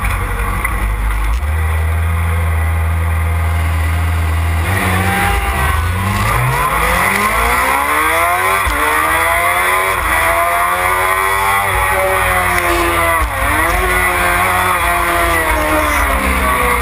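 Onboard sound of a Suzuki supersport race motorcycle engine: a steady low note for the first few seconds, then the revs climb hard as it accelerates, with a sudden drop in pitch at each upshift, twice, over steady wind rush.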